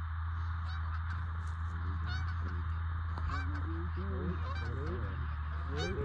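Canada geese honking, many short rising calls overlapping, over a steady low rumble.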